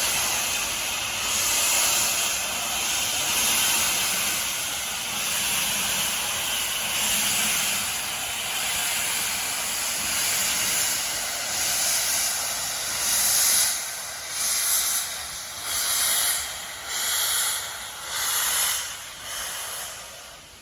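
Steam locomotive hissing steadily as it vents steam; from a little past halfway the hiss turns into slow, separate exhaust chuffs, about one a second.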